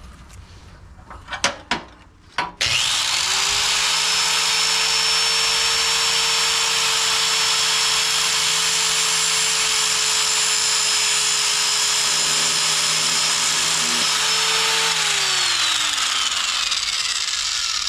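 A few handling clicks, then a grinder starts about two and a half seconds in and runs at steady speed, cutting through the frayed steel winch cable with a hiss over its motor whine. About fifteen seconds in it is switched off and winds down, its pitch falling.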